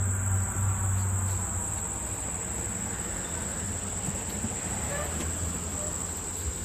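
Insect chorus: a steady high-pitched trill that holds without a break, over a low rumble of movement or wind on the microphone.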